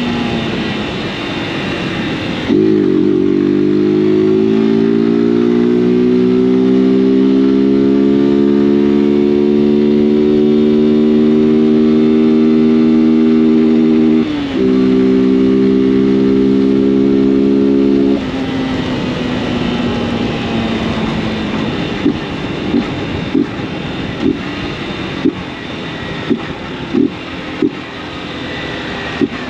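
Honda CG 160 Fan's single-cylinder four-stroke engine pulling hard under throttle, its note climbing slowly, with a brief break about halfway through as a gear is changed. Near the end of the pull the throttle closes and the engine drops to lower, rougher running with a string of short sharp pops from the exhaust.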